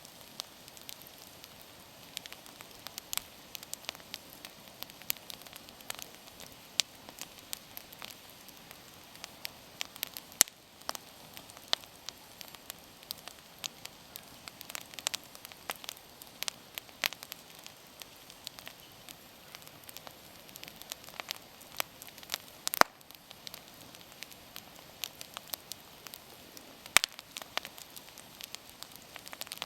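Wood campfire burning with a soft steady hiss and irregular crackles and sharp pops, a few louder snaps standing out.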